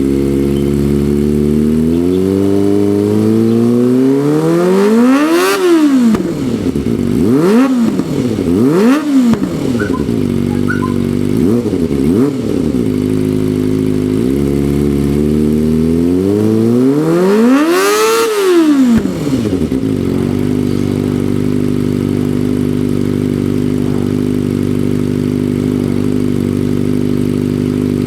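Kawasaki ZX25R's 250 cc inline-four engine through a GP Tech Zeus Short aftermarket exhaust, idling and being revved in place: a long rev that climbs and falls back a couple of seconds in, three or four quick throttle blips, another long rev at around seventeen seconds, then settling back to a steady idle.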